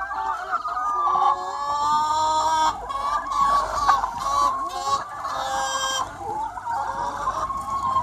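A large free-range flock of chickens clucking and calling over one another in a continuous chorus, with a few louder, higher calls standing out about two and five seconds in.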